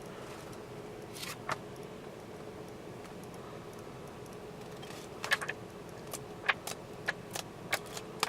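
Scattered light clicks and rattles of things being handled inside a car cabin: two near the start, then a quick run of them from about five seconds in, over a faint steady hum.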